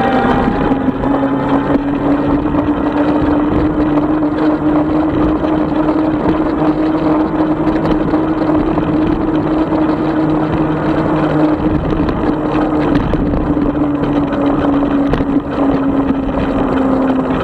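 36-volt electric bike motor whining steadily over a rush of tyre and wind noise. Its pitch climbs a little in the first seconds and sinks slightly towards the end as the speed changes.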